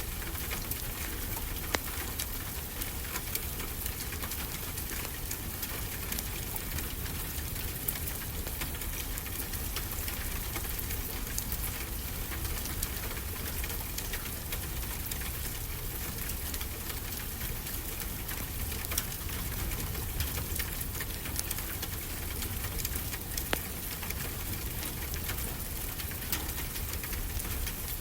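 Steady rain falling, an even hiss, mixed with a fireplace crackling: frequent sharp pops and snaps scattered through it.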